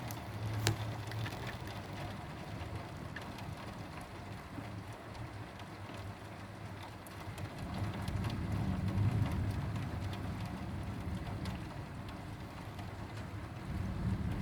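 Heavy rain falling steadily, with single drops clicking sharply now and then, over a low rumble that swells twice, about halfway through and near the end.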